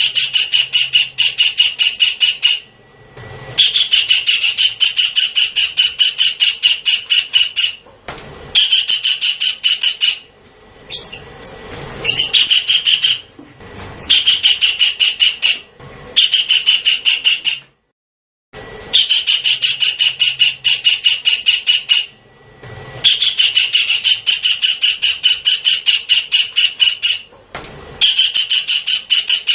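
Javan kingfisher calling: fast rattling series of high notes, about eight a second, in runs of two to four seconds with short pauses between, and a few shorter sweeping notes in the gaps. It is a recorded lure call used to attract the bird.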